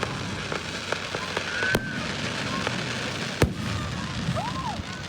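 Fireworks going off: a steady crackle of small pops with two loud sharp bangs, one a little under two seconds in and another about three and a half seconds in.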